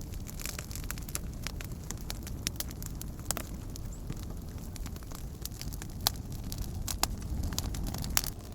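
Wood campfire crackling: a steady run of small sharp snaps, with a few louder pops, over a low, steady rumble.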